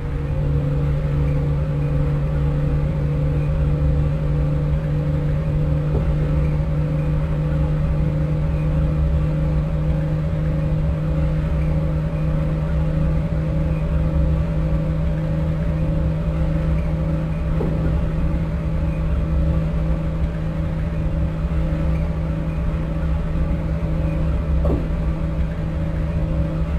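Lisbon Metro ML90 train running at a steady speed, heard from on board: a steady low hum and a higher steady whine from the traction drive over wheel-and-track rumble, with a few faint clicks.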